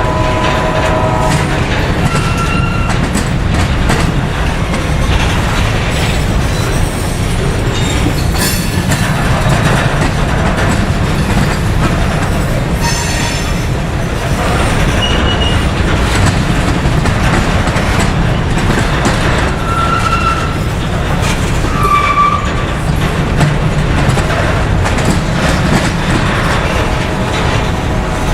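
Freight train rolling past close by, a steady rumble of railcars with clickety-clack from the wheels. A locomotive horn cuts off about a second in, and short wheel squeals come a few times.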